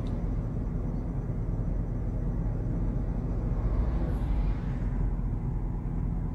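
Steady low rumble inside a stopped car, with its engine idling.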